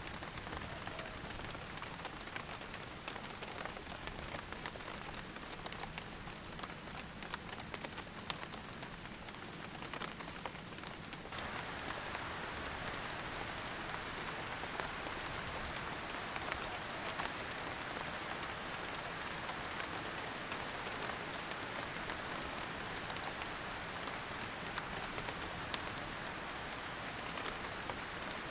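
Steady rain falling, a continuous hiss with many small drops ticking through it. About 11 seconds in it abruptly becomes louder and denser.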